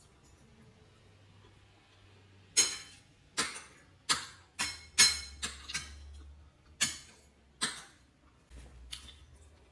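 A utensil clinking against a dish, about eight sharp, irregular clinks with a short bright ring, starting about two and a half seconds in.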